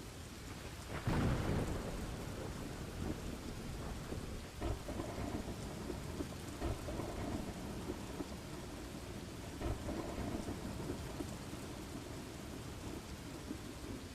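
Steady rain falling with thunder: one loud rolling thunderclap about a second in, then several softer rumbles.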